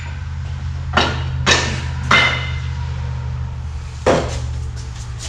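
Four ringing metal clanks on a steel exhaust pipe, three close together and one a couple of seconds later, over a steady low hum.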